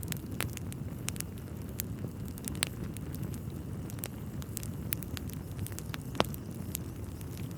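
Wood fire burning in a fireplace: a steady low rumble with irregular crackles and pops, the sharpest a little after six seconds in.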